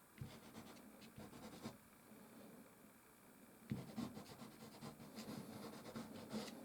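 Soft pastel stick scratching across canvas in short, faint strokes, a few at first, then a quicker run of strokes from a little past halfway.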